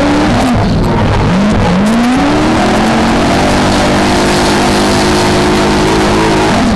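V8 engine of a BMW E30 drift car revving hard: the revs dip briefly about a second in, climb back over the next two seconds and hold high, then fall away near the end.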